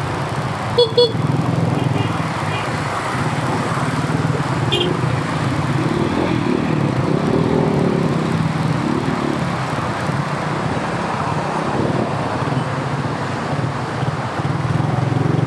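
Motorcycle engine running steadily under the rider amid road and traffic noise, with two short, sharp sounds about a second in.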